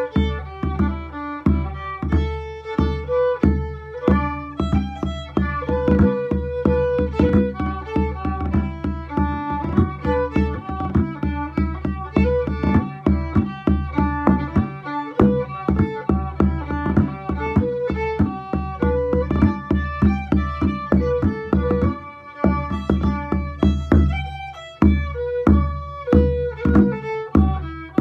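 Fiddle and bodhrán playing an instrumental tune together: the fiddle carries the melody over the steady, even beat of the frame drum.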